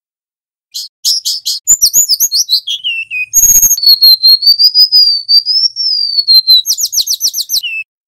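Golden-bellied gerygone (remetuk laut) singing at full volume. A run of quick high notes and a falling trill, then one long wavering whistle, then another fast trill near the end. A short scratchy burst sounds about three and a half seconds in.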